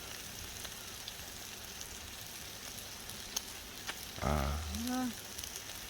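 Pork belly sizzling on a wood stove top: a steady hiss with scattered small crackles and pops.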